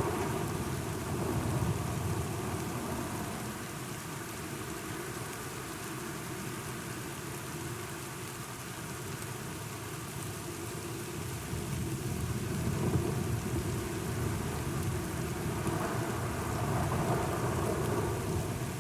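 Steady rain with low rolling thunder; the rumble dies down through the middle and builds again past the halfway point.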